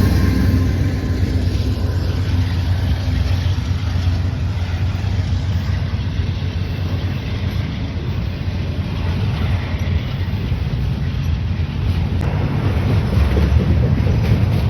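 A train rolling past on the track, a steady low rumble of wheels and cars that grows louder again near the end.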